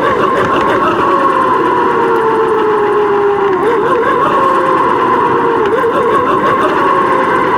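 Bicycle riding noise picked up by a bike-mounted camera: a steady whine that sags slightly in pitch and comes back up as the speed changes, over a rough rumble.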